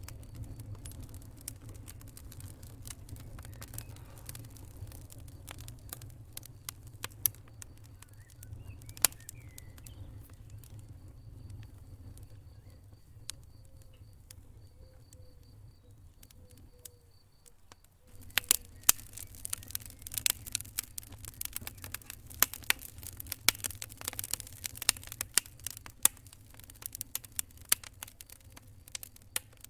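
Wood fire crackling, with sharp irregular pops over a low rumble of flame. The pops thin out for a few seconds past the middle, then come thick and loud for the last third.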